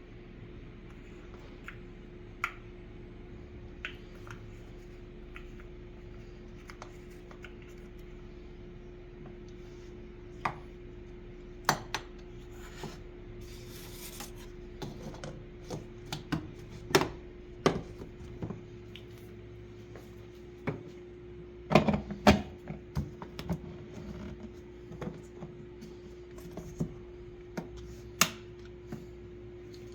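Cups, dishes and utensils clinking and knocking as they are handled, in scattered sharp strikes that come thicker from about ten seconds in. A steady hum runs underneath, and a short hiss comes about halfway through.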